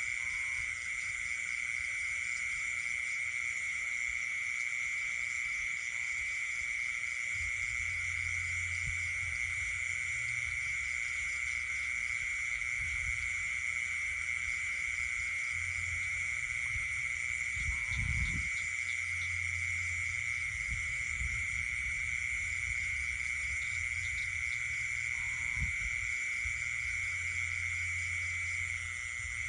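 Night chorus of calling frogs and insects: a steady, unbroken high-pitched drone, with a low hum coming and going and a brief low thump about eighteen seconds in.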